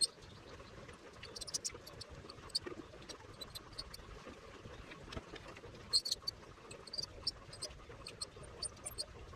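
Irregular faint sharp ticks and crackles from an ultrasonic cutter's tip melting and welding cracked plastic, over a low steady background.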